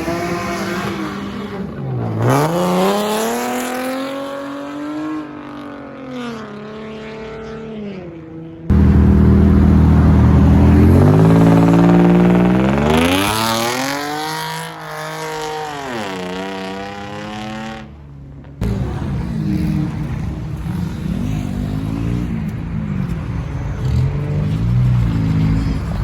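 Performance car engines revving hard and accelerating, their pitch climbing and falling again several times. The sound changes abruptly about nine seconds in, when it becomes much louder, and again about nineteen seconds in.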